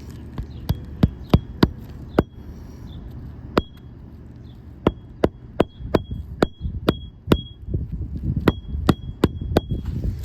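Hammer driving roofing nails into an architectural asphalt shingle: three runs of quick, sharp strikes, about three a second, several with a short metallic ring.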